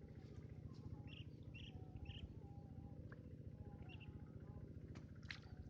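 Small birds chirping faintly, a few short chirps about a second in and again near the end, over a steady low outdoor hum.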